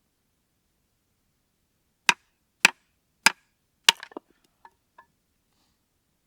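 Firewood being chopped: four sharp chops about half a second apart into hard wood, followed by a few lighter knocks.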